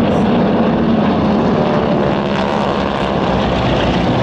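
Propeller aircraft engine running loudly and steadily, its engine note standing out more clearly about halfway through.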